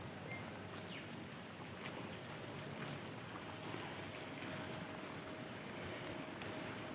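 Faint, steady outdoor background hiss, with a faint steady tone joining about three seconds in.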